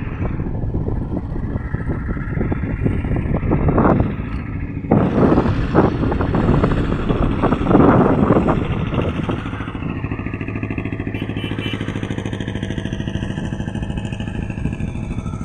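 Isuzu NPR truck's diesel engine running, rough and surging in level for the first nine seconds or so, then settling to a steady, even beat.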